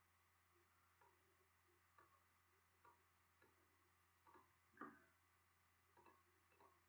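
Near silence, with faint soft ticks coming unevenly every half second to a second.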